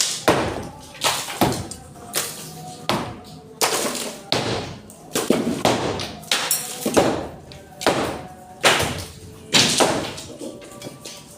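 Repeated heavy blows knocking down a wall, roughly one a second and unevenly spaced, each a sharp crack with a short ringing tail.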